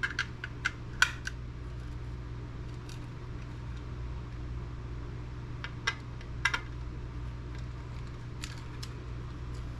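Scattered small clicks and taps of screwdriver bits and a driver being handled and tried on a stubborn computer-case screw, in a few short clusters with the sharpest click about a second in, over a steady low hum.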